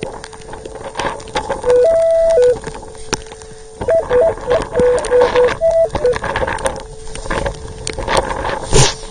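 Metal detector audio: a steady threshold hum with short target beeps at a couple of pitches about two seconds in, then a run of quick choppy beeps from about four to six seconds in, as the coil passes over buried metal. Wind noise and clicks run underneath, with a thump near the end.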